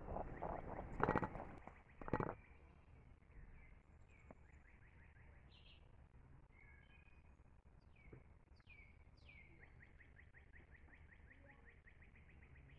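Two sharp knocks about a second apart near the start. Then quiet outdoor air with birds singing: short whistled notes sliding downward, and near the end a fast trill of rapidly repeated notes.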